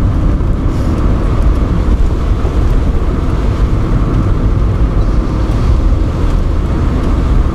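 Opel Kadett D (Astra Mk1) 1.6S automatic estate driving on a snowy, slushy road: a steady, even mix of engine and tyre noise.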